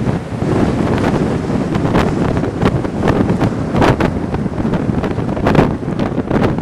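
Strong blizzard wind buffeting the microphone: a loud, rough rumble with sharp gusts hitting the mic several times, the strongest about four and five and a half seconds in.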